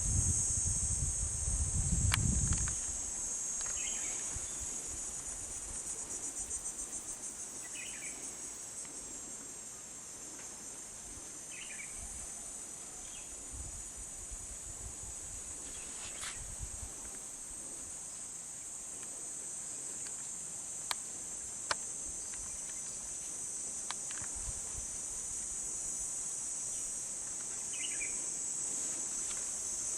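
Steady high-pitched drone of an insect chorus, with a few short faint chirps over it and two sharp clicks a little after the middle. Wind rumbles on the microphone in the first couple of seconds.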